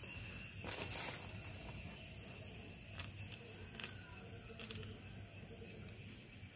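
Faint background ambience with a few short, high, falling chirps from distant birds and a few soft clicks.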